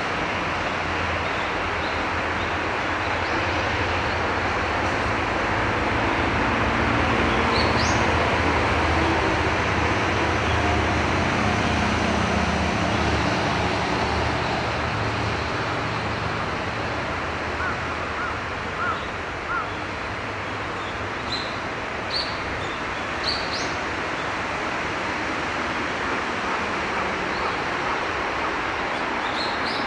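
Steady rushing noise of a small river's flow, with a low rumble that swells and fades between about 6 and 14 seconds in. Several brief, thin, high-pitched bird calls come through, a few of them about three-quarters of the way in.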